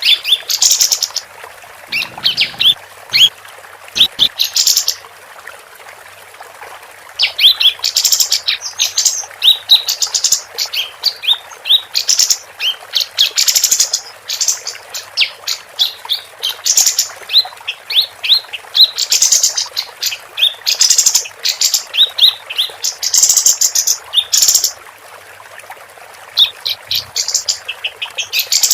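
Female kapas tembak singing busily: runs of quick, high chirps and trills, with a lull of about two seconds near the six-second mark.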